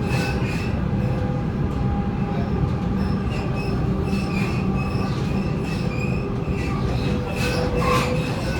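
Waratah A set electric train running on the line, a steady low rumble from the wheels with short high-pitched wheel squeals coming and going. A few sharp clacks over the rails, most of them near the end.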